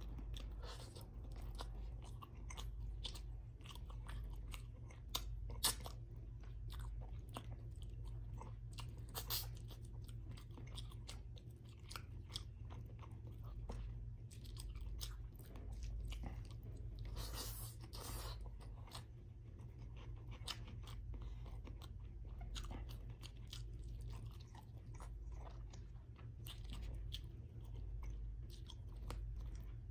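Close-miked chewing of salmon head stewed in vinegar, with rice, eaten by hand: many small wet mouth clicks, a few louder ones, and a brief hiss just past halfway. A steady low hum runs underneath.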